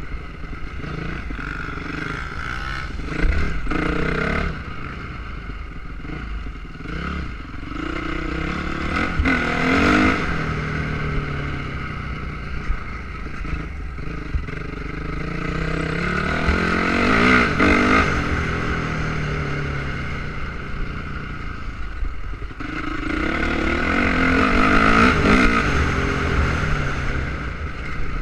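Motocross motorcycle engines revving as bikes pass one after another on the dirt track, each swelling up and falling away, with about four loud passes.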